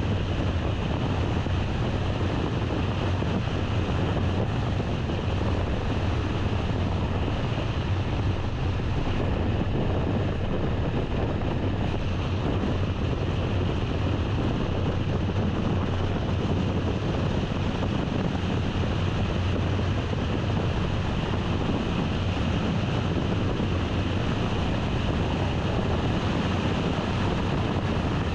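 A car driving at an even speed: steady road and wind noise with a low rumble, unchanging throughout.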